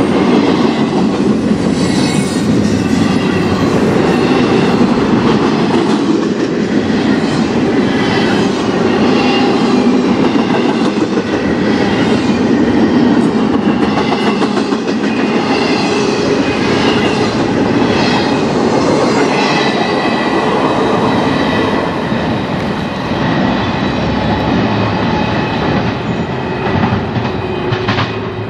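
Double-stack intermodal freight train passing close by: a steady rumble of the container well cars' wheels on the rails, with high wheel squeals wavering over it. It grows a little quieter in the last few seconds as the end of the train goes by.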